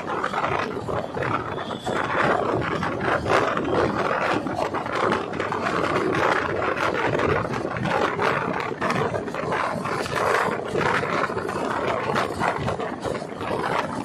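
A train running past, its wheels rattling over the rails in a steady stream of quick clacks.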